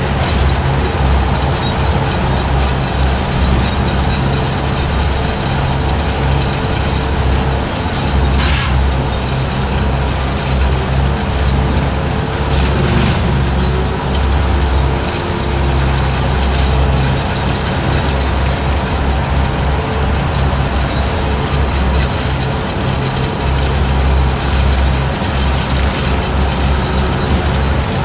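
Skid steer engine running steadily under load while driving a 72-inch brush cutter through long grass, a loud continuous drone with a faint steady high tone. Two brief sharper crackles come about a third and almost halfway through.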